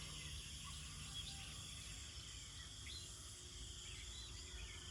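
Faint countryside dawn ambience: a steady high-pitched insect drone with scattered short bird chirps over it, and a low rumble underneath.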